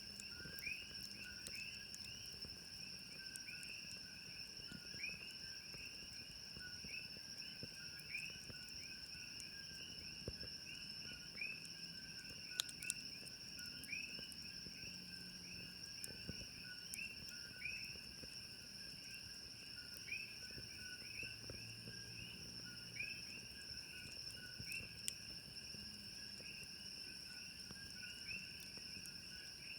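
Night chorus of crickets and other insects trilling steadily, with short rising chirps repeating every second or so. Faint scattered pops from a crackling campfire.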